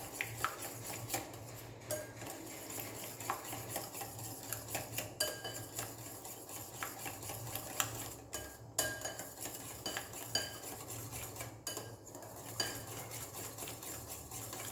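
Utensil stirring and beating butter and beaten eggs in a bowl: irregular clinks and scrapes against the bowl's sides.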